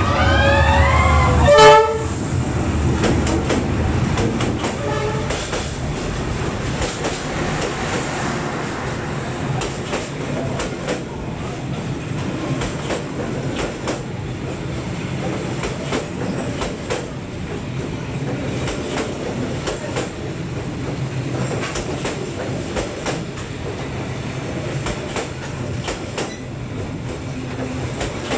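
Diesel-hauled passenger train passing at close range. The locomotive's horn sounds in the first two seconds, loudest at about two seconds in, its pitch bending as it passes. Then the coaches roll by with a steady rumble and the clickety-clack of wheels over rail joints.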